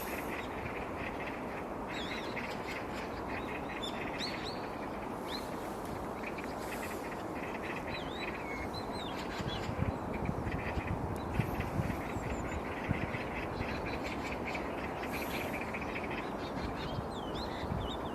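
Several birds calling in short chirps and quick rising and falling notes, some in rapid runs, over a steady rush of background noise, with a few low thumps near the middle.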